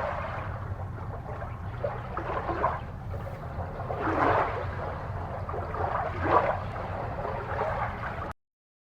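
Water gurgling and swishing in swells every second or two over a steady low hum. It cuts out abruptly to silence near the end.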